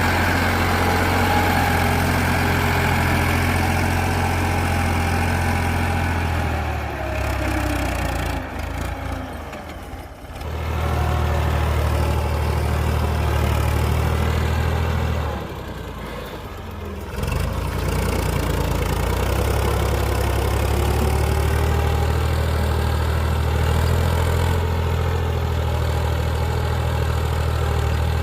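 Ford 3610 tractor engine running steadily under load, pulling a cultivator through hard soil. Its sound drops away twice for a second or two and then comes back up.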